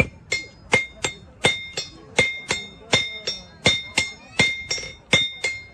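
Hammer blows forging iron on an anvil, a steady rhythm of about three strikes a second with heavier and lighter blows alternating, each leaving a bright metallic ring.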